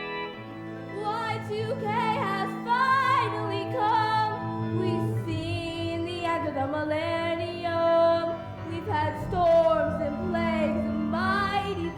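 Musical-theater song: a female voice sings with strong vibrato over instrumental accompaniment, holding a long note near the middle.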